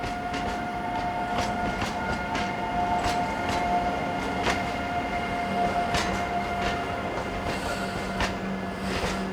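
Train moving slowly through the station, its wheels clicking irregularly over the rail joints, with a steady high-pitched squeal that fades out after about seven seconds.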